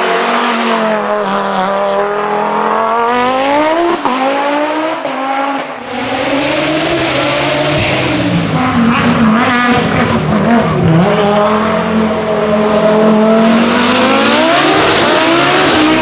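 Turbocharged car engine and exhaust at high revs, its pitch climbing and falling several times as the car accelerates and backs off, with a sudden break about four seconds in.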